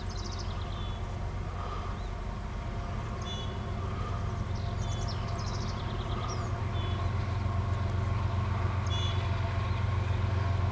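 Diesel locomotives of a long freight train working uphill under load: a steady low engine drone that grows gradually louder as they approach. A small bird calls in short high phrases every few seconds over it.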